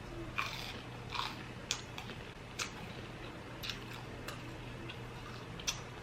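A person eating: scattered short crunches and clicks of biting and chewing, about seven in six seconds, over a steady low hum.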